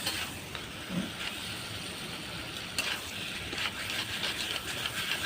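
Chicken curry frying and sizzling in a pan with a steady hiss, with a few light clicks and scrapes of a stirring spoon.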